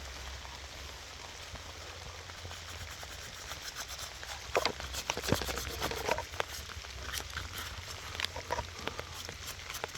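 Rain falls steadily. From about four and a half seconds in, scattered small clicks and scrapes come as a freshly dug find is handled and brushed clean.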